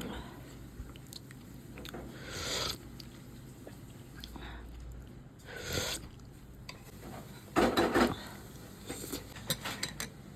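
Someone eating a bowl of chicken pho: a few short bites and chews, with a louder burst about three quarters of the way in and a run of light clicks near the end.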